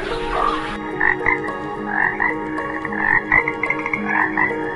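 Frogs croaking, a dense run of short, rapidly repeated calls starting about a second in.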